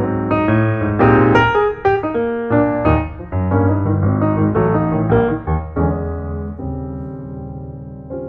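Background piano music: a run of notes, then a held chord from about halfway through that slowly fades.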